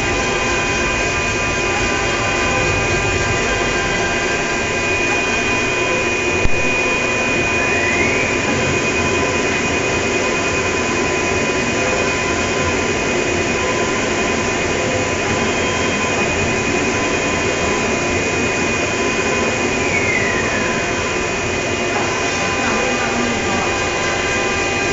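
Cardboard pattern-cutting machine running, a steady mechanical noise with several steady hums. A high whine slides up in pitch about eight seconds in, holds, and slides back down about twenty seconds in; a single sharp click about six and a half seconds in.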